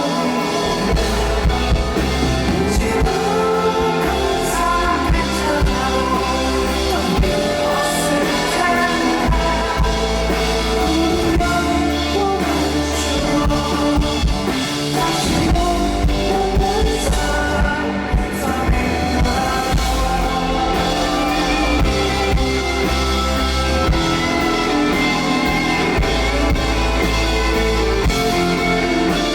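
Live rock band playing electric guitars, bass and drum kit, with a voice singing over them.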